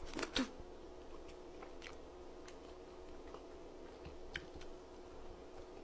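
A person chewing a mouthful of tteokbokki: soft chewing with small wet mouth clicks, and a brief louder mouth sound just after the start, over a faint steady hum.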